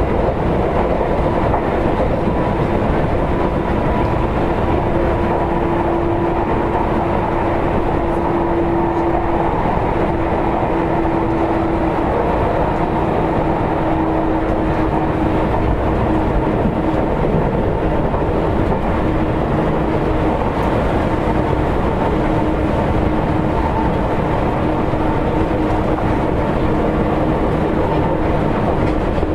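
Seibu 2000 series electric commuter train running at speed, heard from inside the car: a steady rumble of wheels on rail with a steady hum that drifts slightly lower in pitch.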